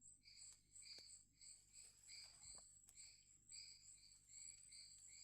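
Faint insect chorus in the forest: a steady high-pitched trill with rhythmic chirps repeating about twice a second.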